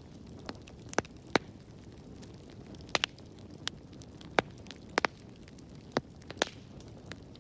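Wood fire in a fireplace crackling: about a dozen sharp, irregular pops and snaps over a low, steady rumble of burning.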